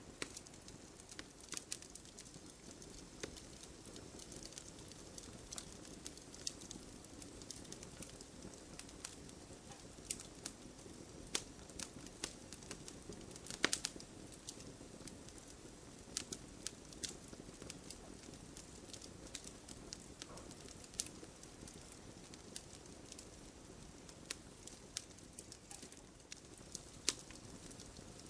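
Wood fire in a fireplace crackling, with irregular sharp pops and snaps over a steady low rush of the flames. One louder pop comes about halfway through.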